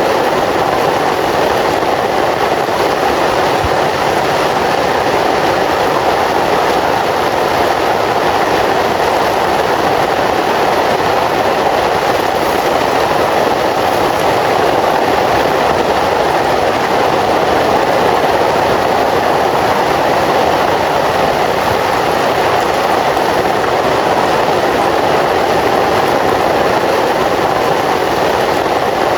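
Heavy rain falling steadily: a loud, dense, even rush of noise with no breaks or changes.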